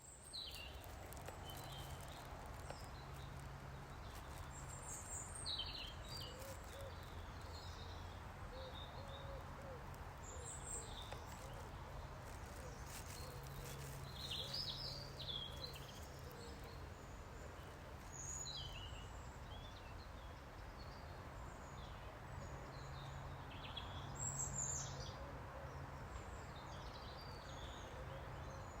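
Small birds chirping and singing in short phrases every few seconds, over a steady low rumble.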